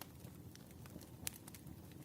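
Wood fire burning softly, with a low rumble and scattered sharp crackles and pops, one louder pop a little past the middle.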